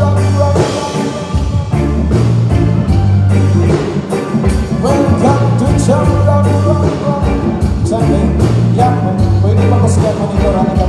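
Live band playing a song, with a voice singing over held low bass notes and a steady drum beat.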